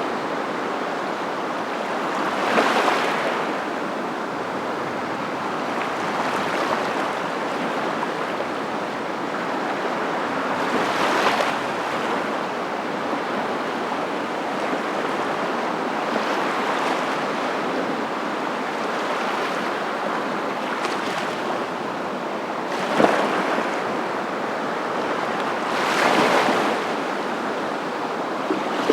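Steady rushing noise of ocean surf, swelling louder about four times as waves break.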